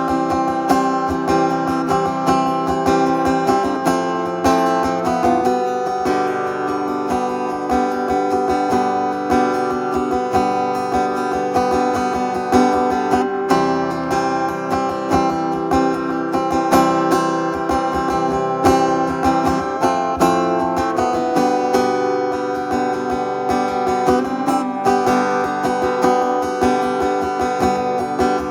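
Acoustic guitar strummed in a steady rhythm, with the chords changing every few seconds, as an instrumental break between sung verses.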